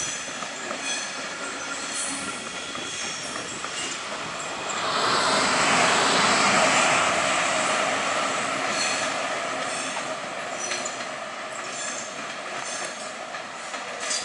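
Train moving through a station, its wheels squealing on the rails in thin high tones over steady rolling noise. The sound swells about five seconds in and then slowly fades.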